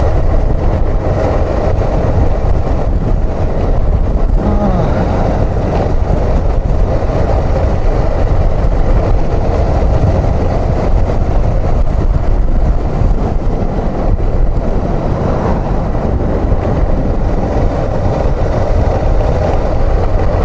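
Suzuki XF650 Freewind's single-cylinder engine running steadily while the motorbike is ridden, mixed with a dense, steady low rumble of wind and road noise on the microphone.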